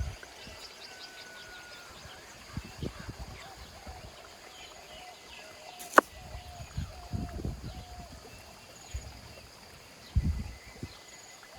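Birds chirping in an outdoor background, with scattered soft low knocks and one sharp click about six seconds in.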